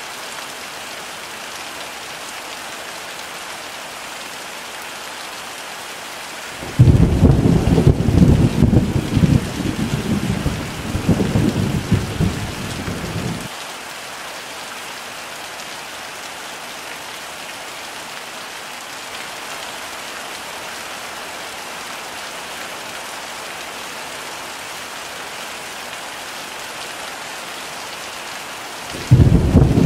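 Heavy rain pouring steadily, with a loud rumble of thunder that breaks in suddenly about a quarter of the way in and rolls for about seven seconds before stopping. A second thunder rumble starts just before the end.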